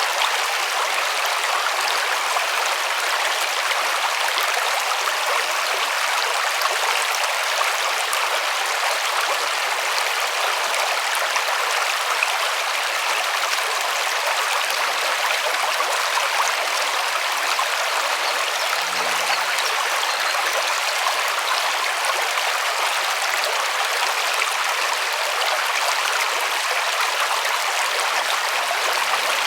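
River water rushing and babbling over stones, a steady even noise with no change.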